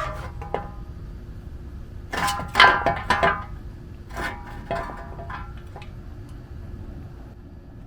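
Metal-on-metal clinks and clanks with a short ringing after each, in two clusters: a loud one about two to three and a half seconds in and a smaller one a little later.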